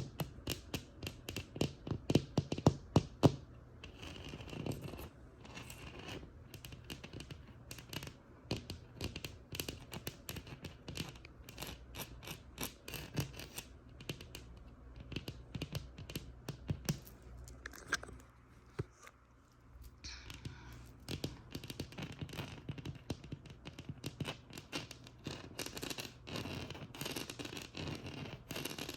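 Tapping on a textured wall for the first few seconds, then rapid scratching across its rough surface, dropping briefly quieter about two-thirds of the way through before resuming.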